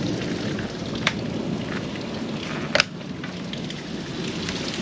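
Heavy rain falling steadily, with two sharp taps of drops striking something close by, the louder one near three seconds in.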